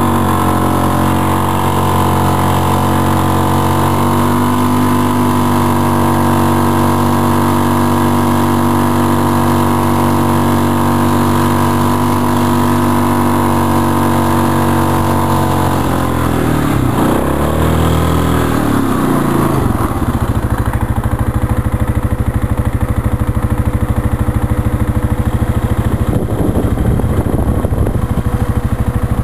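Small engine running steadily at a constant speed, then its pitch dips and swings back about sixteen seconds in before it settles into a lower, rougher, fast-pulsing idle.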